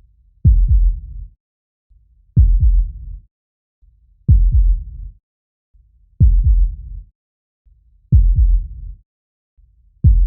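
A deep, slow heartbeat-like double thump repeating evenly about every two seconds, five times, each fading out over about a second: a heartbeat sound effect or the bass intro of an electronic track.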